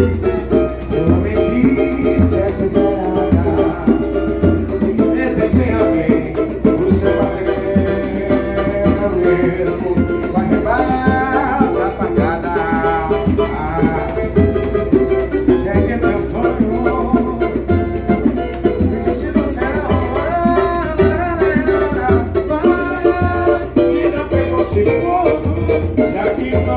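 Samba music: singing voices over percussion, with a steady low beat about once a second.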